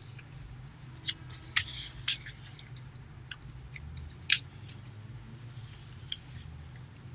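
Sheet of paper being folded in half and creased by hand: scattered crisp rustles and crackles, the sharpest about four seconds in.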